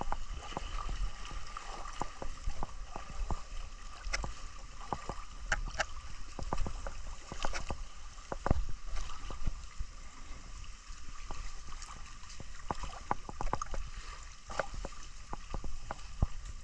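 Water moving and sloshing, with many scattered sharp clicks and knocks at irregular intervals.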